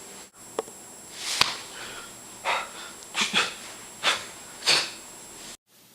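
A series of short, breathy puffs, like hard breathing or sniffing, about five of them spread over a few seconds, with a sharp click about a second and a half in.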